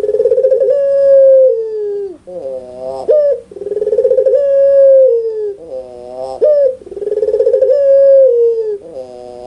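Puter pelung dove (a domestic Barbary dove) cooing loudly, three times. Each phrase is a short gliding note followed by a long, rolling, trilled coo.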